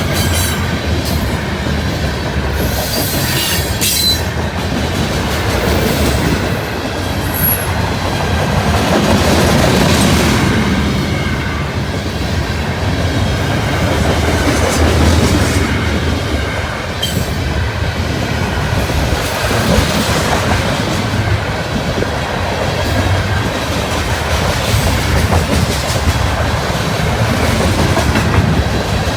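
Covered hopper cars of a CN potash freight train rolling steadily past, wheels clacking over the rail joints with a brief wheel squeal a few seconds in, mixed with wind buffeting the phone's microphone.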